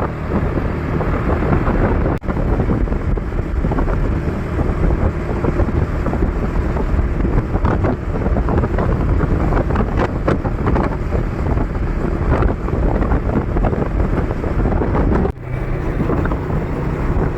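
Heavy wind buffeting the microphone over a vehicle's steady engine hum while travelling. The sound dips briefly about two seconds in and again near the end.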